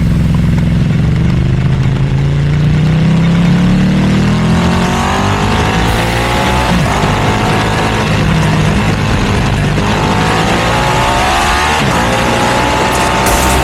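Ducati V2 twin-cylinder motorcycle engine through a Termignoni exhaust, accelerating hard. Its pitch climbs and drops back at each of three upshifts.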